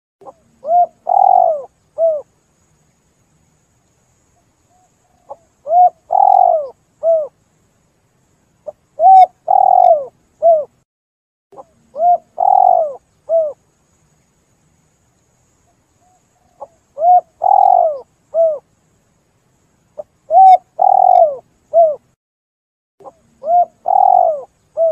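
Spotted dove (tekukur) cooing: short phrases of three or four low, arched coos, repeating every three to four seconds with brief silences between.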